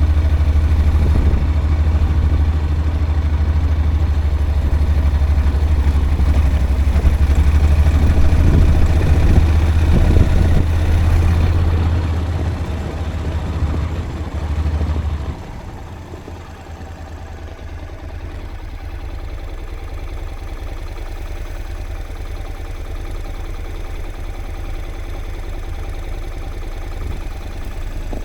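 A vehicle's engine running with a heavy low rumble. About fifteen seconds in the rumble drops away suddenly, and the engine carries on quieter and steady.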